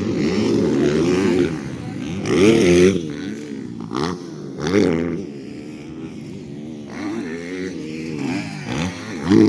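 Motocross dirt bikes revving on the track, engine pitch rising and falling with the throttle, with louder surges about two and a half seconds in, around five seconds in and near the end.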